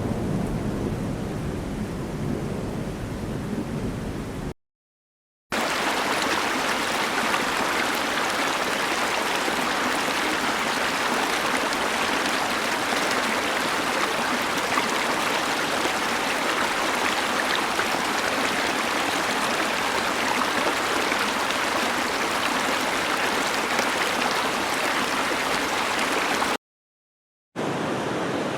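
Sound-effect tracks cut one after another. First comes a deep rumbling rain noise, which stops dead about four seconds in. After a second of silence, a stream's steady bright rush of running water plays for about twenty seconds and cuts off near the end. After another short silence, the next water track begins.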